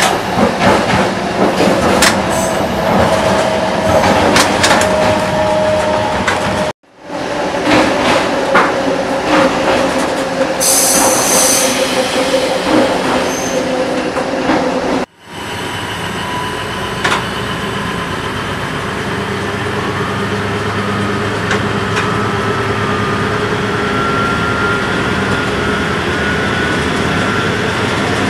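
Class S11 diesel-electric multiple unit running on the line, with rattling and clicking of the wheels over the track. A brief high-pitched noise comes about ten seconds in. The sound cuts off abruptly twice, and after the second break the running noise is steadier, with a whine that rises slowly in pitch.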